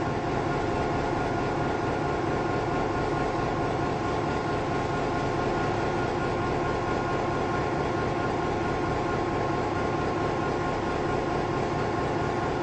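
Passenger train rolling past at speed: a steady rumble of wheels on rail with a steady whine held on one pitch.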